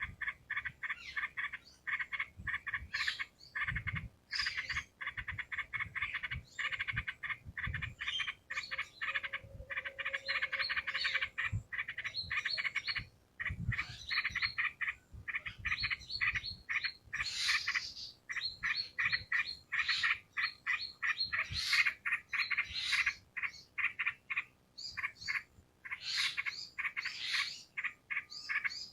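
Yellow-vented bulbul (trucukan) singing: long runs of rapid short notes, phrase after phrase with brief pauses.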